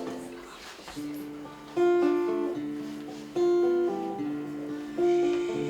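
Acoustic guitar playing an instrumental introduction: chords struck about every one and a half seconds, each ringing and fading before the next.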